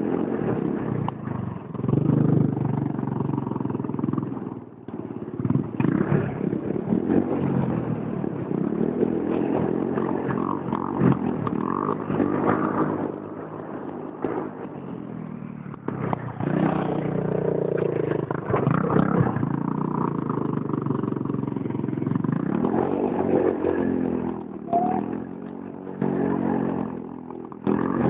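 Pit bike engine revving over and over, its pitch rising and falling with each blip of the throttle.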